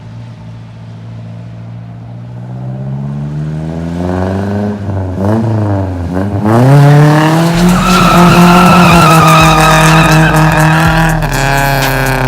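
Nissan D21 Hardbody pickup's engine revving up, dropping sharply twice in quick succession, then held at high revs with tires squealing as the truck drifts.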